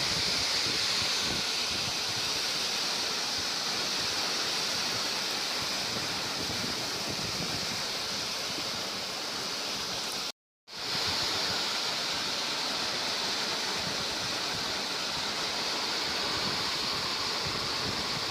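Rain falling steadily, an even hiss of water, cut off for a split second about ten seconds in.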